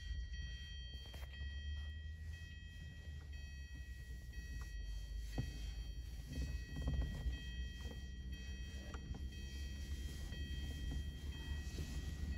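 Low steady rumble of an idling vehicle heard from inside its cabin, with a thin steady high-pitched tone over it and a few faint ticks.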